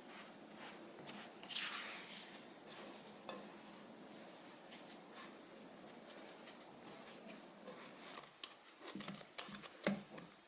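A utensil stirring and scraping in a mixing bowl with light clinks, and a few louder knocks against the bowl near the end.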